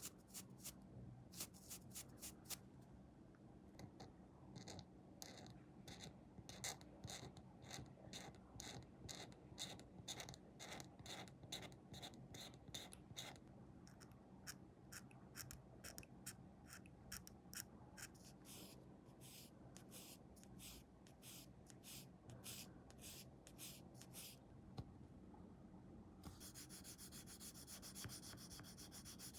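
Small plastic scale-model parts being sanded by hand, in short back-and-forth rubbing strokes at about two a second, turning into steadier continuous scraping near the end.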